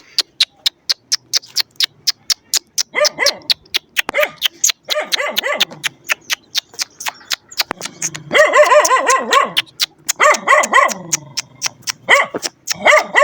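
Dog barking and yipping in repeated bursts, over a fast series of sharp clicks at about four or five a second.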